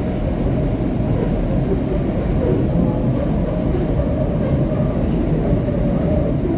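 SEPTA Market-Frankford Line M-4 car in motion, heard from inside: a steady low rumble of wheels on the rails and running gear, with no break.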